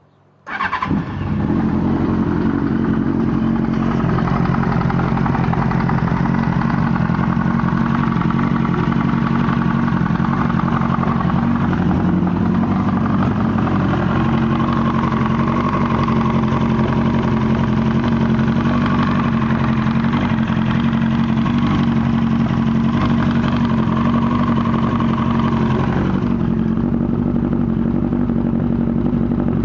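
1998 Yamaha R1 inline-four engine, starting about half a second in and then idling steadily with a weird knocking noise. The knock came on after an accident and its cause is unknown: the owner wonders about the cam chain tensioner, the clutch basket or the valves.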